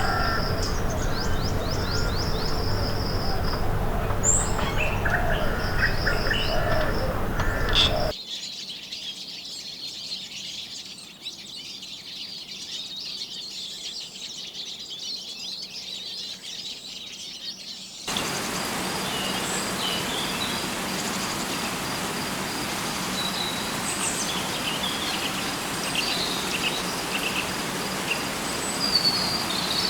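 Tropical rainforest ambience: birds calling with short repeated whistles and chirps over a high steady buzz of insects. The mix changes abruptly about 8 and 18 seconds in, dropping to quieter insect buzz in the middle and then back to a fuller insect drone with scattered bird chirps.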